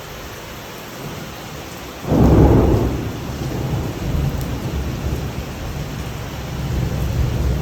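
Heavy rain hissing steadily, then a sudden crack of thunder about two seconds in that rolls on as a low rumble under the rain.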